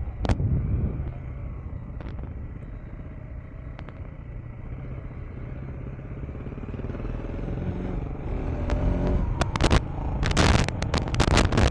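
KTM 390 Enduro R's single-cylinder engine running under way, its note rising in the second half as the bike picks up speed. Wind buffets the microphone over the last couple of seconds.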